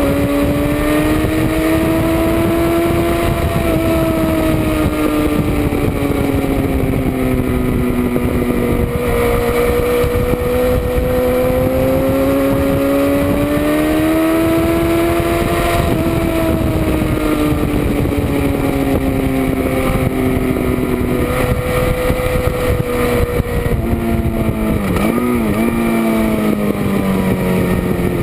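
Motorcycle engine running hard at track speed, heard from a camera on the back of the bike with steady wind rush. Its pitch rises and falls slowly as the revs change, with a quick down-and-up wobble near the end.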